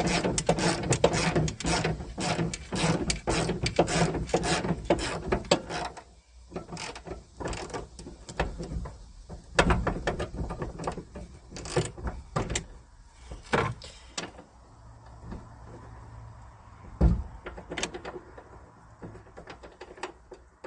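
Ratchet wrench clicking rapidly, about five clicks a second, as a bolt is worked loose. About six seconds in the clicking stops, and scattered clinks and knocks of metal parts and tools follow.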